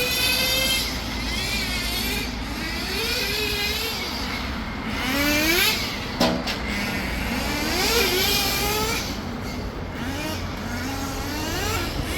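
Nitro glow-engine RC touring car engine at high revs, its whine rising and falling again and again as the car accelerates and slows around the track. There is a short rattle of clicks about six seconds in.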